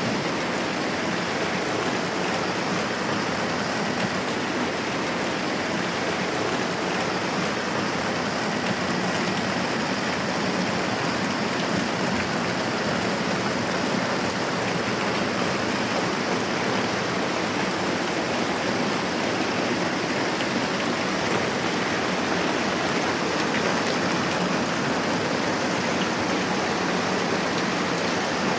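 Moderate rain falling steadily: an even, unbroken hiss.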